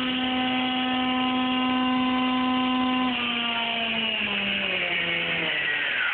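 Model airplane's motor and propeller running with a steady hum, then dropping in pitch in steps after about three seconds as the throttle comes down. Near the end a higher tone falls steeply.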